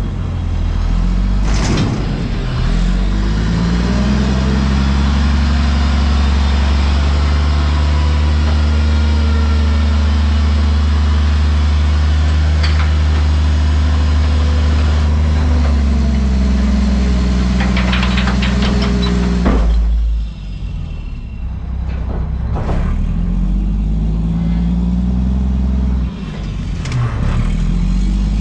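Front-loader garbage truck's diesel engine revving up and holding high revs to drive the hydraulics for about twelve seconds, then dropping back to idle, and revving again near the end. A burst of rattling clatter comes just before the revs drop.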